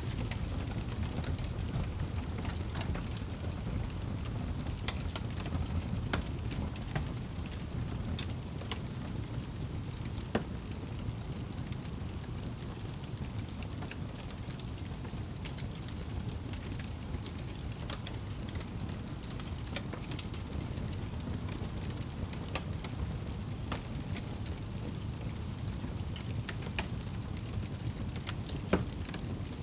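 Wood fire crackling in a fireplace: a low steady rumble of flames with scattered sharp pops, one louder pop near the end.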